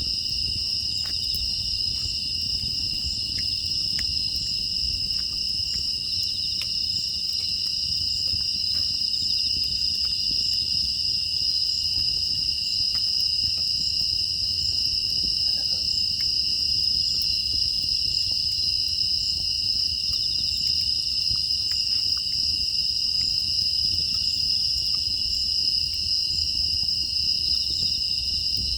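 A chorus of grass insects, crickets among them, trilling without a break in two steady high bands. Faint scattered ticks and a low, even rumble lie underneath.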